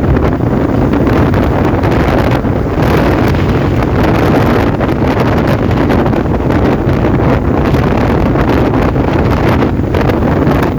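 Heavy wind buffeting the microphone of a moving motorcycle, a loud, steady rushing rumble with the vehicle's running noise underneath.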